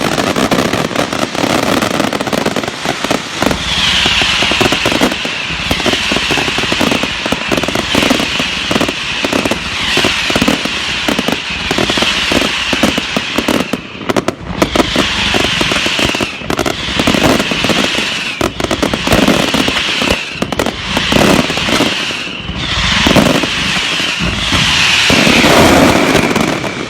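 Fireworks going off: a dense, rapid crackle of firecrackers with louder bangs, joined from a few seconds in by hissing bursts about once a second.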